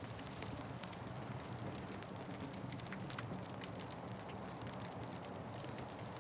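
Wood fire burning: frequent sharp crackles and pops over a steady low rumble of the flames.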